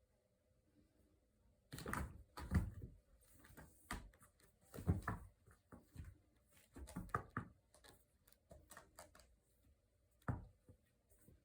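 Rescue kittens playing with toys in a small room: irregular knocks, thumps and rustling, bunched together for several seconds, then one sharp thump near the end.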